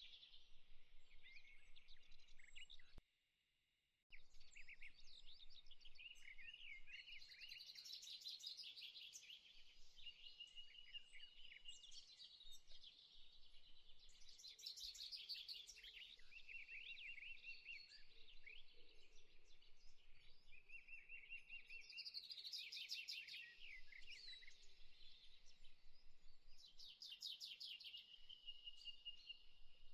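Faint birdsong: several birds chirping and trilling in repeated phrases, with a sudden drop to silence lasting about a second, about three seconds in.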